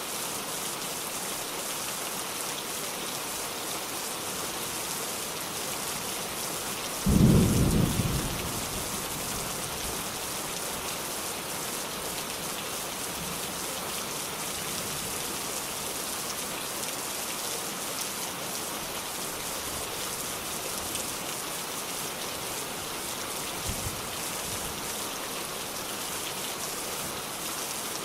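Steady rain falling, with a sudden low clap of thunder about seven seconds in that dies away over a second or two.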